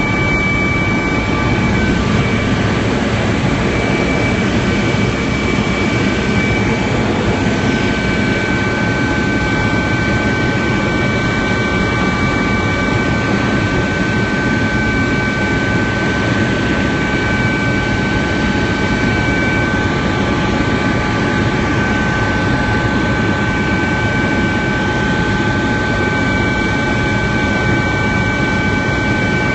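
Helicopter running steadily: a constant loud rush of rotor and engine noise with a high, steady turbine whine over it.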